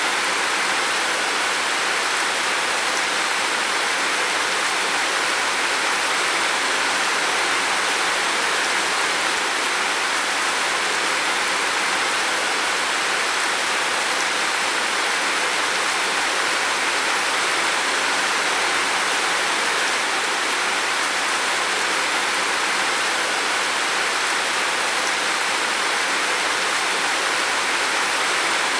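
Heavy rain falling steadily on a roof, a dense even hiss with no single drops standing out.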